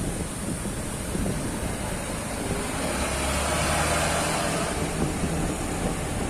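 A truck's engine running with tyre and road noise while driving on a wet road, growing louder for a second or so midway.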